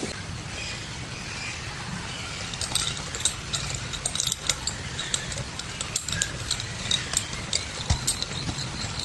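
Steady hiss of rain, with a run of irregular small sharp clicks and snaps starting about two and a half seconds in.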